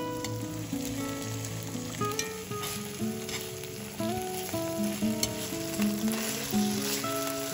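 Food sizzling as it fries in a pan, the sizzle growing stronger about two seconds in, with a few sharp clicks of a utensil stirring it. Background music with a simple melody plays underneath.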